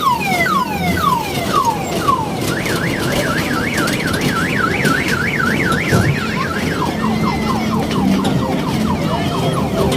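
Electronic siren tones cycling through patterns: a series of falling wails, then a fast up-and-down warble for about four seconds, then quicker falling wails.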